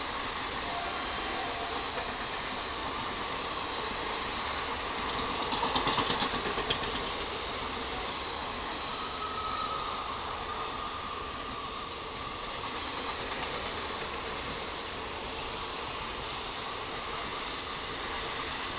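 Passenger coaches of a mail train running past at speed: a steady rush of wheels on rails and air. About six seconds in comes a brief, louder burst of rapid clatter.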